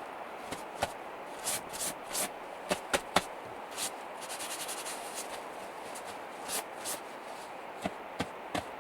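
Irregular clicks, knocks and short rustles of things being handled over a steady hiss, with a quick run of small ticks about halfway through.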